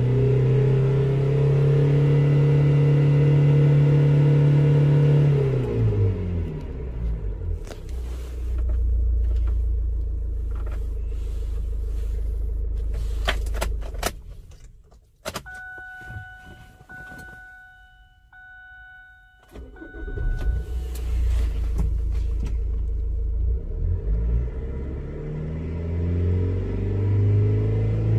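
SsangYong Korando C engine held at a steady high idle of about 2,500 rpm, then dropping back to a low rumble. It goes quiet about halfway through while an electronic chime beeps several times. The engine is heard again about 20 seconds in and revs up near the end.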